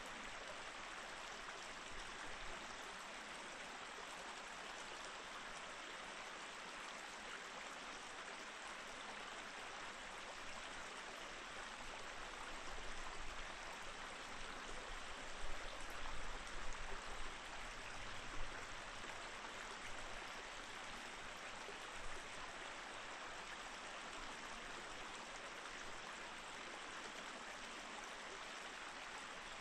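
Snow-edged mountain stream flowing steadily over rocks, an even rushing of water. A few brief low bumps break in near the middle.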